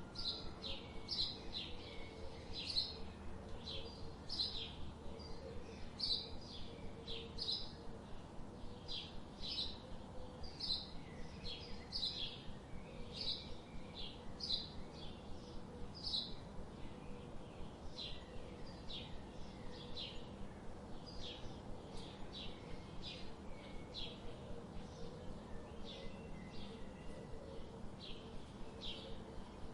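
Small songbird calling, a short high note repeated about twice a second, over faint steady background noise.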